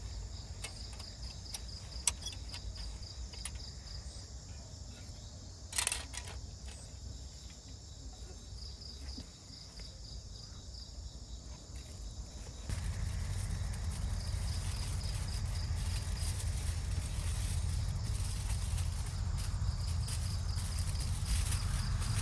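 Insects chirping in repeated trains of rapid high pulses, with a steady low rumble underneath that grows louder about two-thirds of the way through. A short crackle sounds about six seconds in.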